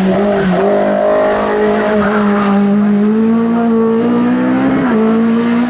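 Race car engine running hard at a steady high pitch, with brief dips in pitch about half a second in and again near five seconds in.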